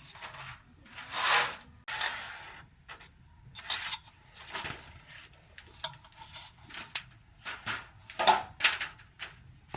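Irregular rubbing and scraping sounds: a string of short noisy strokes of uneven length and loudness, the loudest about a second in and again near the end.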